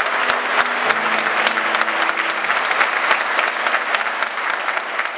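Wedding guests applauding and cheering after the couple is introduced as husband and wife, with soft background music.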